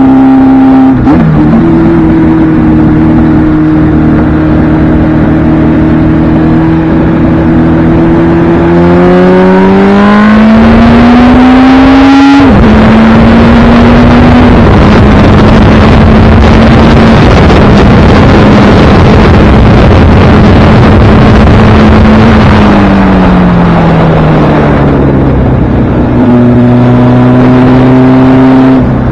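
1976 Kawasaki KZ1000's air-cooled inline-four engine running on the road, with wind rushing past. The engine note revs up under acceleration, drops suddenly at a gear change near the middle and holds steady. It then winds down off the throttle and picks up again near the end.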